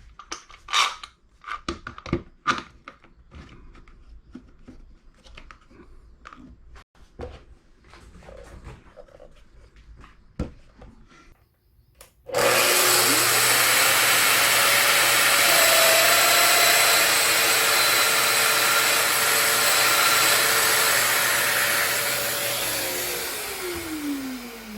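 Light clicks and knocks of a tool being handled, then about twelve seconds in an electric power tool's motor switches on, spins up and runs steadily with a loud hiss for about ten seconds, then is switched off and winds down with a falling pitch.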